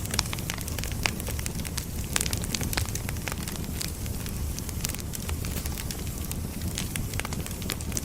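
Firewood burning, crackling and popping irregularly over a steady low rumble and hiss of the flames.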